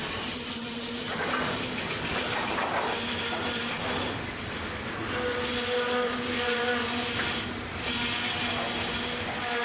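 Container freight train wagons rolling past on the rails, their wheels squealing in steady tones that come and go, one louder high squeal about five seconds in.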